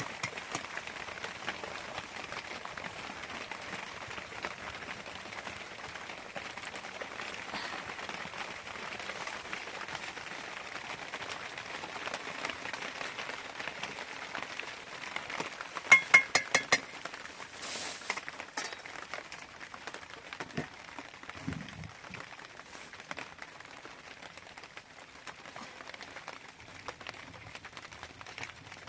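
Steady patter of rain. About halfway through comes a quick run of about six sharp, ringing clinks, the loudest sound here.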